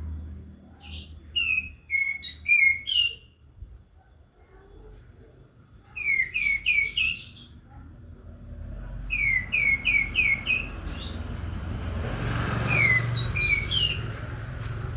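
A songbird chirping in quick runs of short, sharply falling notes, three or four at a time, with a pause of a couple of seconds between runs. A steady background noise and low hum build up in the second half.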